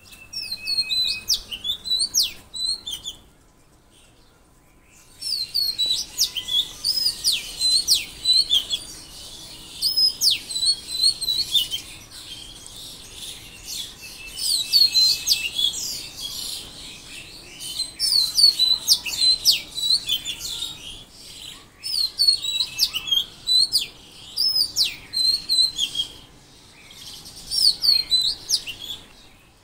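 Songbirds chirping: bursts of rapid, high, repeated calls lasting a few seconds each, separated by short pauses.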